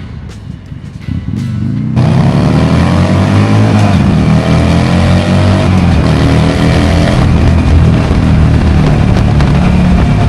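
Motorcycle engine accelerating hard during an overtake. The engine is quieter at first and then loud from about two seconds in, its revs climbing, dropping at a gear change and climbing again, under a loud rushing noise.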